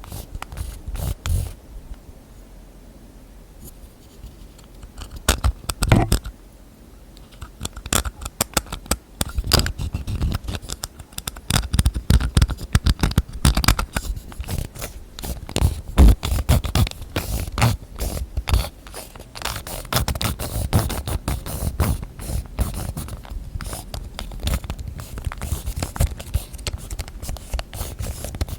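ASMR finger tapping and scratching on objects such as lids, close to the microphone: a few taps, a brief quieter pause, one sharp tap, then rapid continuous tapping and scratching from about a third of the way in.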